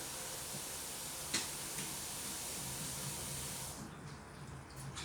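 Steady hiss of water rushing inside an overfilled Indesit washing machine, cutting off about four seconds in, over a faint low hum.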